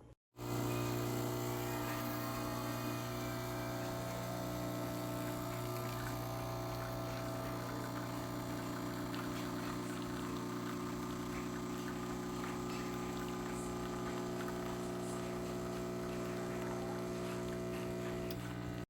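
De'Longhi Stilosa espresso machine's vibratory pump running with a steady hum while it pushes water through the coffee. It starts about half a second in and holds steady throughout.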